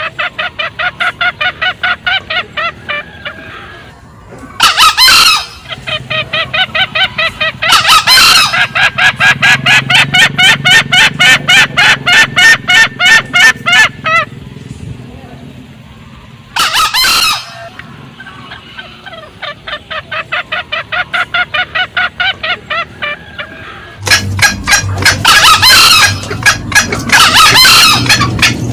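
Green junglefowl calls: a hen's rapid cackling in long runs of short clucks, broken now and then by the male's brief, loud crow, several times over.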